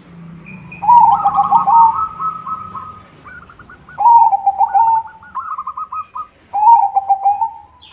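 White zebra dove (perkutut) cooing in its rhythmic song. There are three loud phrases of rapid, stuttering coos, and a quieter, slightly higher cooing line runs between them.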